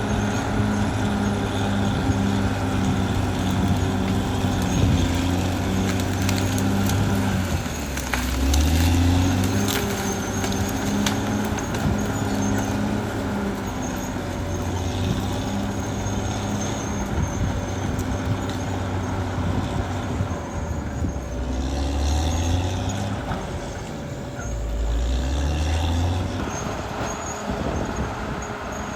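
Caterpillar D6R XL bulldozer's diesel engine running under load, its pitch rising and falling as it revs up several times, with scattered clanks.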